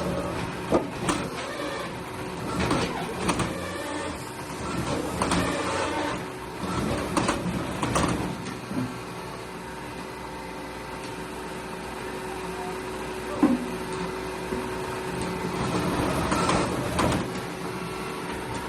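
A machine running with a steady hum, with frequent knocks and clatters in the first half and one sharp knock later on.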